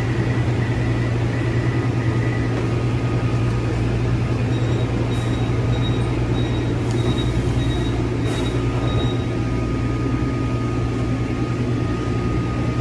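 Taichung MRT metro train running, a steady rumble with a strong low hum. In the middle there is a series of short high beeps, about two a second.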